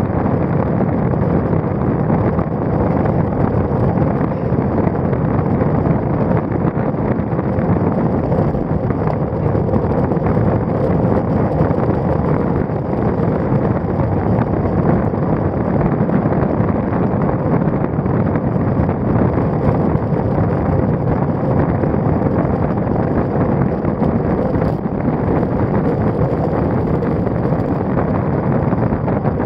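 Steady wind rush buffeting the microphone of a road bike's stem-mounted action camera while riding, mixed with road noise.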